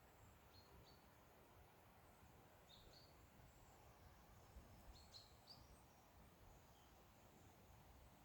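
Near silence: faint woodland birdsong, a few short high chirps scattered through, over a low steady background hiss.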